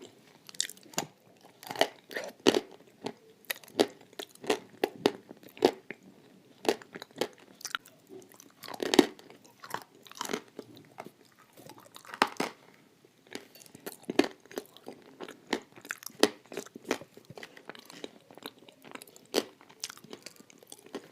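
Dry Turkestan clay coated in blue Uzbek clay paste being bitten and chewed: irregular sharp crunches, a few of them louder bites.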